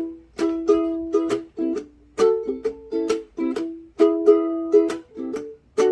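Acoustic string instrument strumming chords in a steady rhythm, about three strums a second: an instrumental break in the song with no singing.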